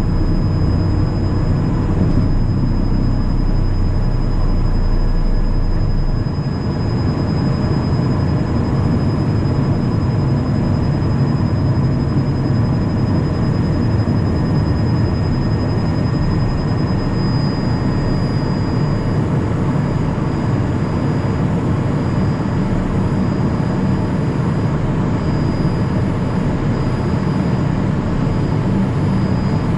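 Steady cockpit noise inside a Cessna Citation Mustang light jet: a dense rumble of airflow and its twin Pratt & Whitney PW615F turbofans, with a thin, steady high whine on top. The deepest part of the rumble eases slightly about six seconds in.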